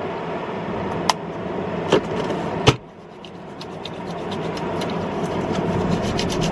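Steady road noise inside a moving car, with a few light clicks. A sharp click comes near the middle, after which the noise drops off suddenly and then slowly builds back up.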